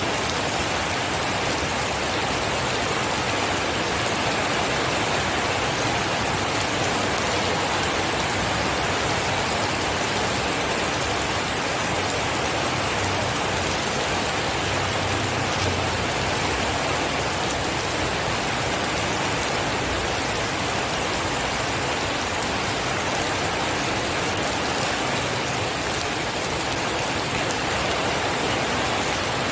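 Steady rain falling, an even, unbroken hiss that neither builds nor fades.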